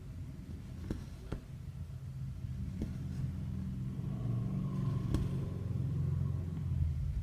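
Low steady rumble with a hum, like a motor vehicle engine, growing louder through the second half. Four light, sharp clicks over it.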